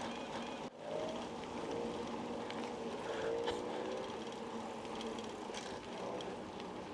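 Steady rush of wind on the microphone and tyre noise from a bicycle rolling along a paved path, with a brief dropout about a second in.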